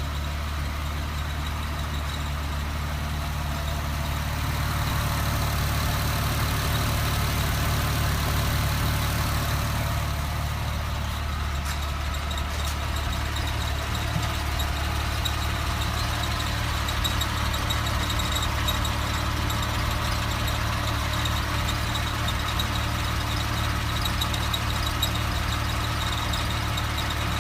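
A 2007 Porsche 997 Carrera 4S's flat-six engine running steadily, with a thin, steady high-pitched whine or squeak over the engine note: the unexplained noise the owner is trying to trace.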